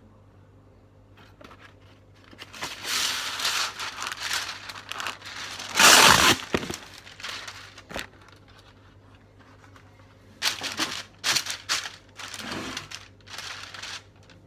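Crinkly wrapping being handled and crumpled, in irregular noisy stretches, loudest about six seconds in and again in several short bouts near the end.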